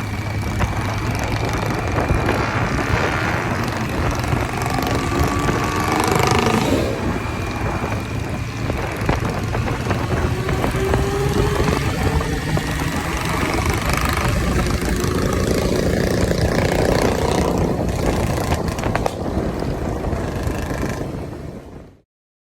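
Motorcycle engines running with heavy wind noise, the pitch rising in places as engines rev; the sound cuts off abruptly near the end.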